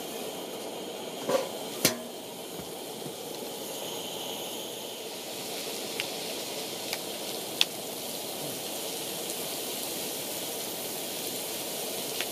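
Food frying with a steady sizzle, with two sharp knocks about a second and a half in and a few lighter ticks later.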